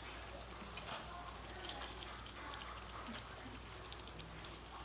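Rain falling steadily, a soft hiss with scattered small pattering ticks.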